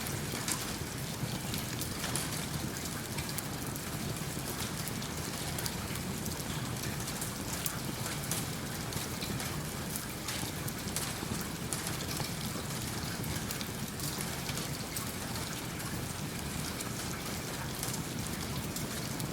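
Steady rain falling with many short, sharp drop ticks, mixed with a crackling wood fire in a fireplace.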